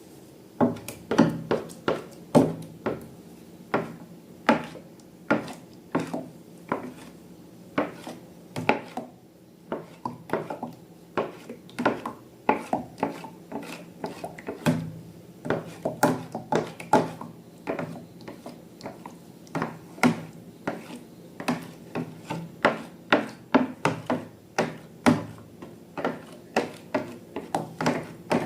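Slime being worked by hand or mixed, giving an uneven run of sharp wet clicks and pops, about two or three a second, starting about half a second in.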